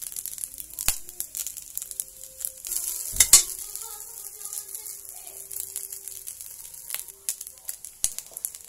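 Rice, garlic and chorizo frying in a stainless-steel pan: a steady crackling sizzle. A few sharp knocks cut through it, the loudest a double knock about three seconds in.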